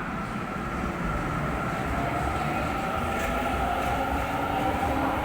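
Seibu 30000-series electric train pulling away from a station: its VVVF inverter whine rises slowly in pitch as the train accelerates, over rolling wheel noise, growing gradually louder.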